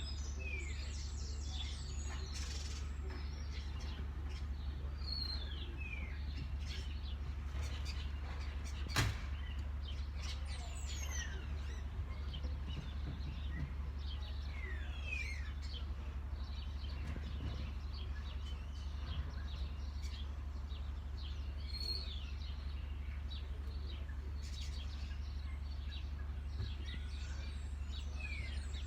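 Several birds chirping, many short downward-sliding calls scattered throughout, over a steady low hum. A single sharp click about nine seconds in.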